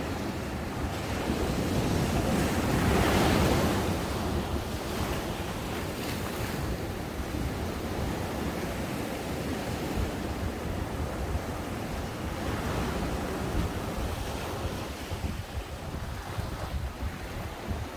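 Ocean waves breaking on a sandy beach. One wave crashes loudest a couple of seconds in, then the surf keeps up a steady rushing wash.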